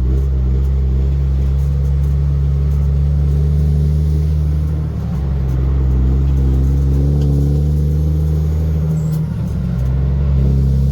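Heavy truck engine running close by, a deep steady drone that briefly drops about five seconds in and again near nine seconds before picking up again.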